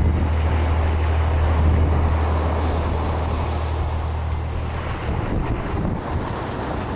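Strong wind buffeting the microphone with rushing sea noise, a heavy low rumble that eases off about five seconds in.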